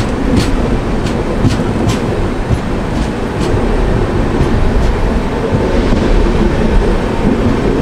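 Double-decker Indian Railways passenger coach running along the track, heard from inside: a steady loud rumble of wheels and rails, with a run of sharp clicks in the first few seconds.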